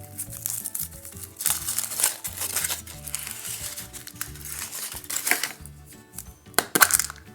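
Foil wrapper of a chocolate surprise egg crinkling in irregular bursts as it is peeled off, the sharpest crackles near the end, over background music.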